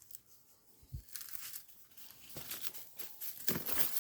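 Footsteps crunching and rustling through dry leaves and brush. The first second is quiet apart from a low thump about a second in, then come repeated crackling rustles, loudest near the end.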